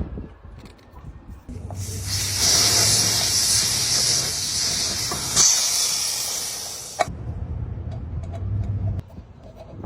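A pressurised jet hissing loudly for about five seconds, starting and cutting off abruptly, over a low steady hum.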